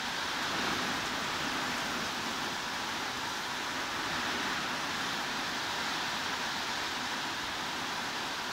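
Heavy rain falling steadily: an even hiss with no single drops or gusts standing out.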